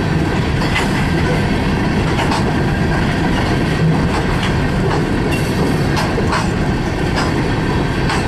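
Freight train cars rolling past: a steady, loud rumble of wheels on rail with irregular sharp clacks as the wheels cross rail joints.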